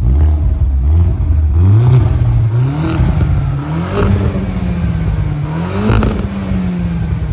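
Audi A4 engine revved several times through its stock exhaust, muffler still fitted. The revs climb to peaks about three, four and six seconds in, each time falling back toward idle.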